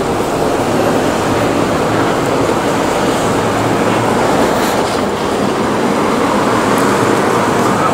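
A subway train running on its rails: a loud, steady rumble with a few sharp clicks in the second half.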